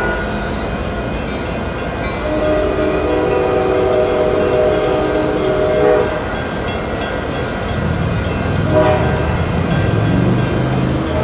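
Passing train sounding a Nathan K5LA five-chime air horn: a long blast of about four seconds, then a short blast near the end, over the steady rumble of the train, which grows louder in the last few seconds.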